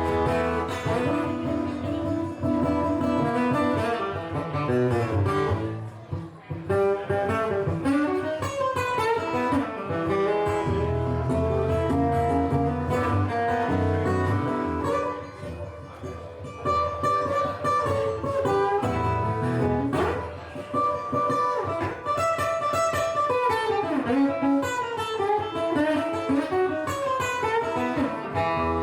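Live guitar playing an instrumental break in a blues song, with quick runs of single notes, several of them falling, over a steady low backing and no singing.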